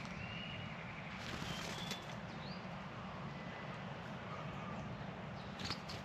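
Outdoor backyard ambience: a few faint, short whistled bird calls over a steady low hum, with brief crackly rustles between about one and two seconds in and again near the end.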